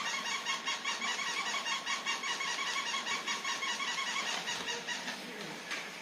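Battery-powered toy giving a rapid pulsing electronic chirp, about five pulses a second, that stops about five seconds in; a short click follows near the end.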